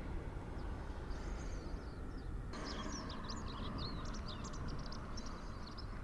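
Small birds chirping in a quick series of short calls over a steady low outdoor rumble; the chirping starts abruptly about two and a half seconds in.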